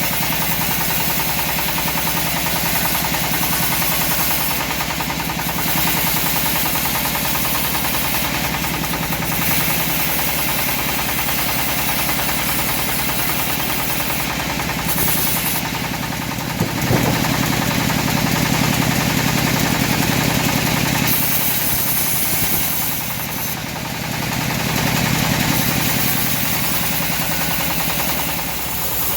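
Engine-driven homemade bandsaw mill running steadily while sawing teak, its level swelling and dipping a little, with one sharp knock about halfway through.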